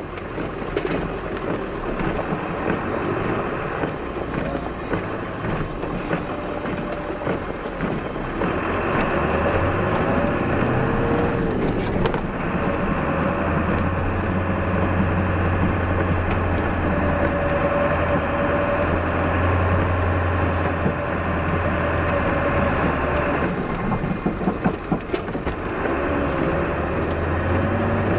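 Plow truck fitted with a 9-foot Boss Power V snowplow, running while plowing snow. The engine gets louder and steadier from about eight seconds in, then eases off again about 23 seconds in.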